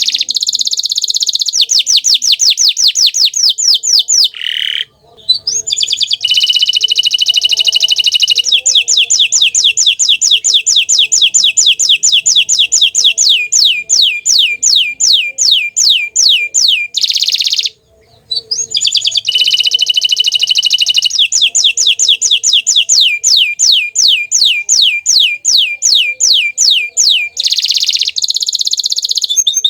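Domestic canary singing long rolling trills of rapidly repeated, downward-sweeping high notes. The trills change speed from phrase to phrase, with short breaks about five seconds in and again past halfway.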